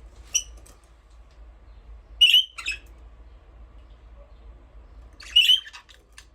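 Budgerigars giving short, sharp chirping calls: one about half a second in, two close together a little past two seconds in, and another near the end.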